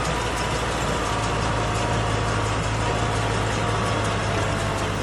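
Kubota tractor engine running steadily with a low, even hum.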